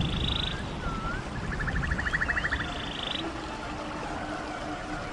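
Running stream with animal calls over it: short swooping whistles and rapid pulsed trills that repeat a few times.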